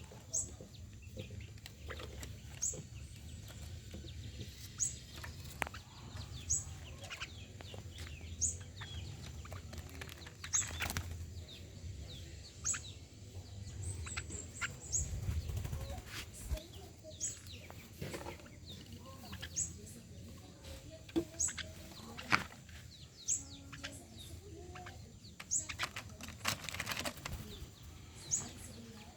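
A bird calling with short, sharp, high chirps that sweep downward, repeated about every two seconds, with fainter chirps from other birds between them. A low rumble underlies the first half and stops about halfway through.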